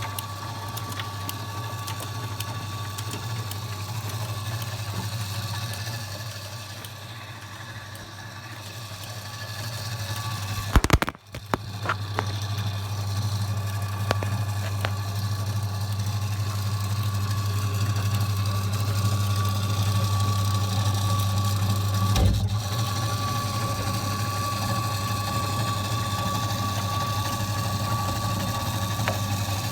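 Washing machine motor running with a steady hum and a faint high tone. About eleven seconds in there is a sharp knock and a momentary break, after which the hum runs louder, with a smaller thump some ten seconds later.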